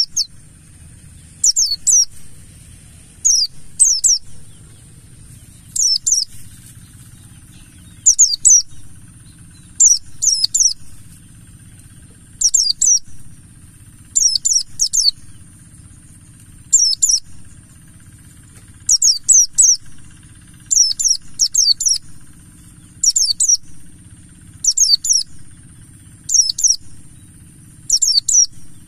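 Pleci buxtoni white-eye singing: short phrases of two or three quick, high, falling chirps, repeated every second or two over a steady high hiss.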